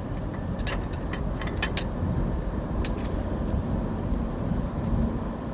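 Steady low rumble of vehicle engines at a truck stop, with a few short sharp clicks in the first few seconds.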